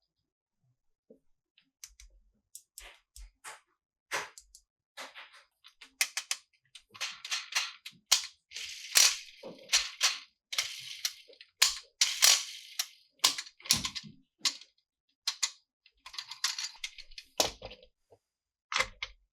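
Plastic toys and packaging being handled: a string of sharp clicks and snaps with short stretches of crinkling between them, sparse at first and much busier from about six seconds in.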